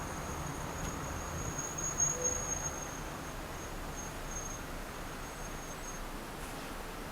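Steady low road and engine noise of a car being driven, with a thin, high steady whine over it that stops about six seconds in.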